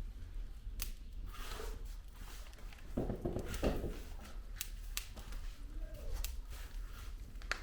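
Wood fire in a fireplace crackling: scattered sharp pops of burning logs over a low steady rumble of the flames, with a louder stretch of crackle about three seconds in.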